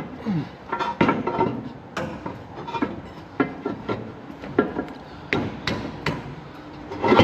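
Irregular metal knocks and clanks from tools and parts during hands-on work on a diesel bulldozer engine: about two sharp strikes a second, some with a short ring.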